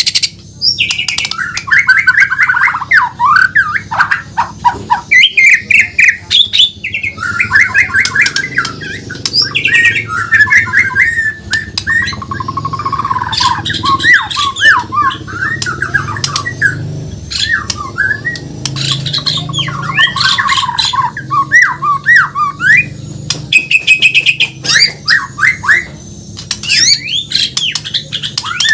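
White-rumped shama (murai batu, Bornean form) singing a long, near-continuous run of varied phrases: rapid trills, sweeping whistles and harsh chattering notes, with brief pauses between them.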